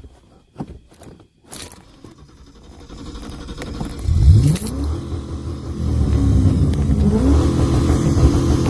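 V8 car engine revved hard. After a few clicks and knocks, the engine climbs quickly about four seconds in, peaks briefly, then is held at high revs and rises again near the end.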